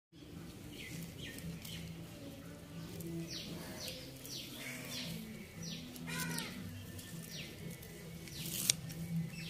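Small birds calling: repeated short chirps that slide downward, with a warbling phrase about six seconds in. Near the end a single sharp snip, scissors cutting through spring onion stalks.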